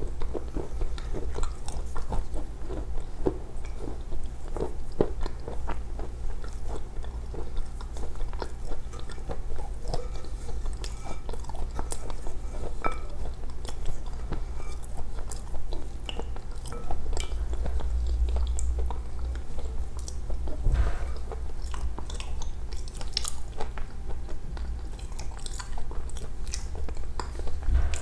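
A person chewing and biting soft chalk paste close to a clip-on microphone, a steady run of small crunches and wet mouth clicks.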